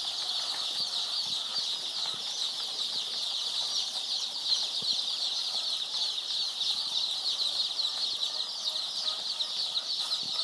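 A large flock of day-old layer chicks peeping all together: a dense, continuous chorus of short, high chirps.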